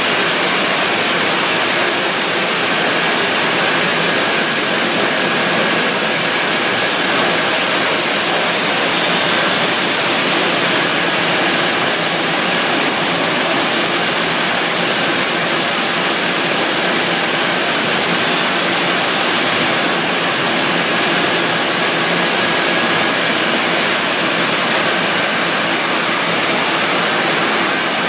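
Steady, loud rushing noise of drum-making production machinery, even throughout with no distinct knocks or rhythm.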